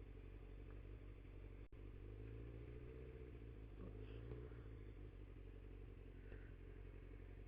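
Faint motorcycle engine running at low speed, its note rising slightly about two seconds in and then holding steady.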